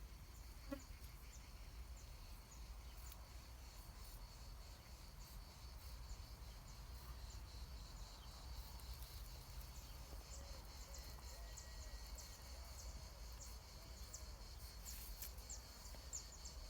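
Faint outdoor ambience: a steady high insect drone, joined about halfway through by many quick, high chirps, over a low rumble.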